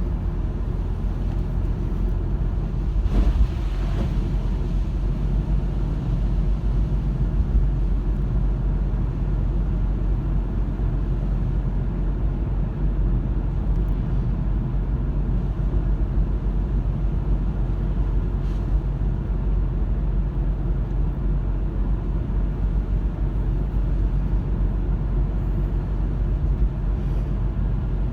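Car driving along a road: a steady low rumble of engine and tyre noise, with a brief louder swell about three seconds in.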